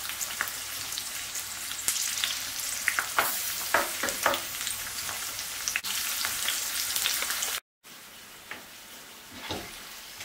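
Slit green chillies frying in hot oil in an uncovered non-stick pan, sizzling and crackling as a spatula stirs them. The sound cuts out for a moment about three quarters of the way through and comes back as a quieter sizzle.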